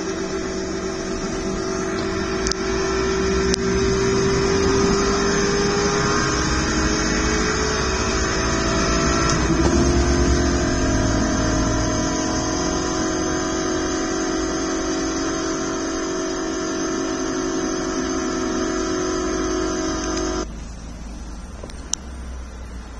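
Several NASCAR race trucks' V8 engines running at full throttle together in a pack, a steady high-pitched drone. The drone shifts slightly in pitch midway and cuts off abruptly near the end.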